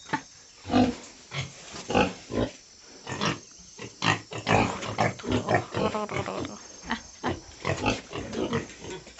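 Domestic pigs in a pen grunting, many short calls coming in quick, irregular succession.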